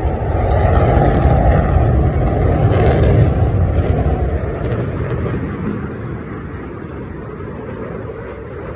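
F-16 fighter jet passing by, its engine noise a loud low rush that is strongest in the first few seconds and then fades away as the jet moves off.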